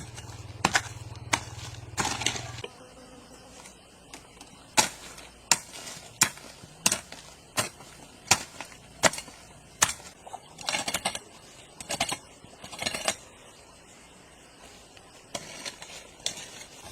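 A series of evenly spaced sharp strikes, about three every two seconds, with a low hum that stops early on and a few scraping sounds around the middle.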